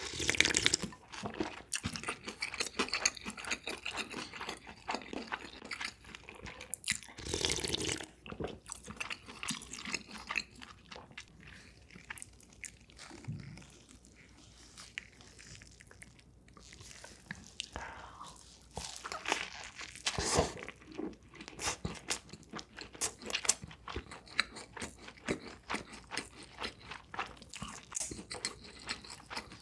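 Close-miked eating: someone bites and crunches crisp food and chews, in irregular strokes, with a quieter stretch of soft chewing midway.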